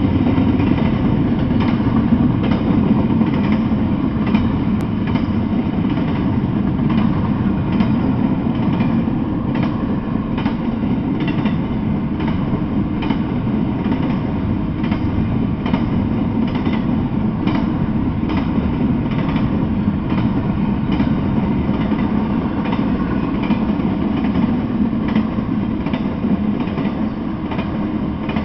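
Intermodal freight train of double-stack container and trailer cars rolling past: a steady rumble of wheels on rail with a run of clacks as the wheels cross rail joints.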